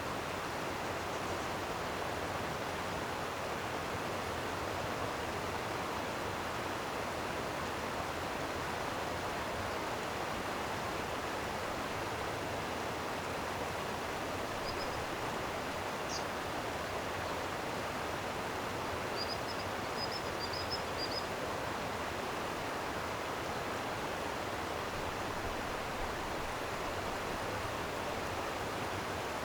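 A stream flowing steadily, its water rushing in an even, unbroken wash. A few brief high chirps sound about halfway through.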